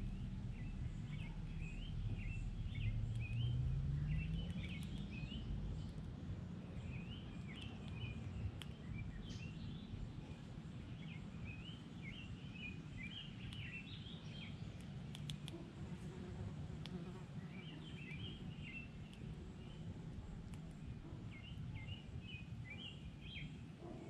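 Small songbirds chirping in short repeated bouts, off and on, over a steady low background rumble; a low hum rises in pitch about two to five seconds in.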